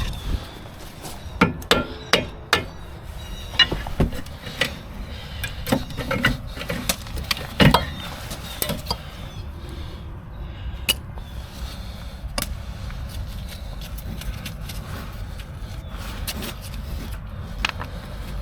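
Irregular metallic clinks and knocks of hand tools and brake parts being handled and tapped during a front brake job. The strikes come thick and fast for the first several seconds, then thin out to an occasional clink.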